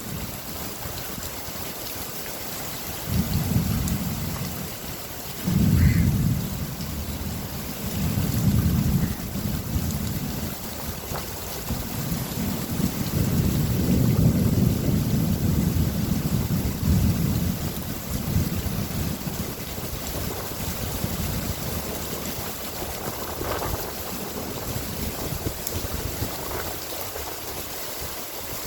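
Steady rain falling, with several rolls of low thunder rumbling through it. The rumbles come one after another in the first two-thirds, with the longest a little before the middle, and die away toward the end, leaving only the rain.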